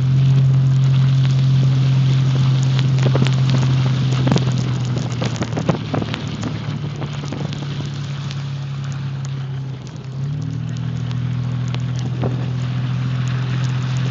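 Car driving, heard from inside the cabin: a steady low hum of the engine and road that steps slightly in pitch about ten seconds in, with scattered ticks and taps over it.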